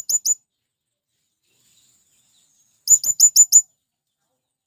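Male blue-crowned hanging parrot (serindit) giving its shrill, high-pitched call: the last few notes of one rapid series right at the start, then a second quick run of about six sharp notes about three seconds in.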